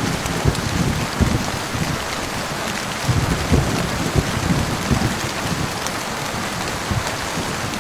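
Heavy rain falling steadily, with low, irregular rumbles of thunder swelling and fading, strongest about three to five seconds in.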